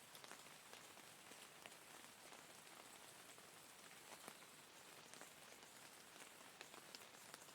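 Steady, faint rainfall: an even hiss with scattered individual drops ticking.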